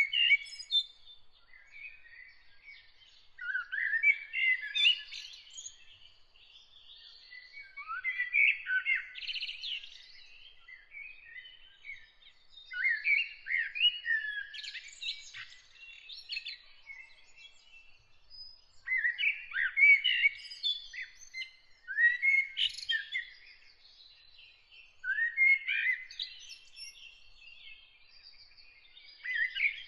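A songbird singing varied warbling phrases, each a second or two long, with short pauses between them, over a faint steady high-pitched tone.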